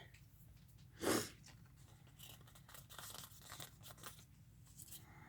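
A short rip about a second in, then faint rustling and light clicks as glue-covered craft scissors are cleaned with Goo Gone.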